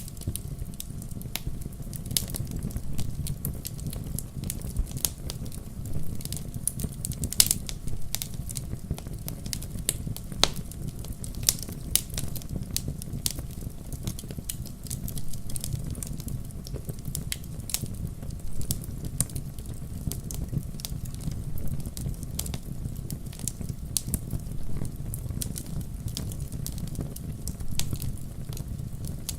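Wood fire in a fireplace crackling: irregular sharp pops and snaps from the burning logs over a low, steady rumble of the flames.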